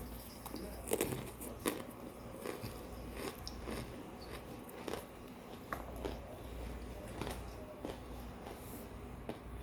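Close-up crunching as a person bites and chews hard, crunchy frozen microwave-baked chunks, with sharp crunches at irregular intervals.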